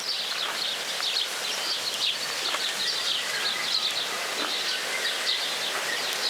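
Small birds chirping and calling, many short, high chirps in quick succession over a steady background hiss.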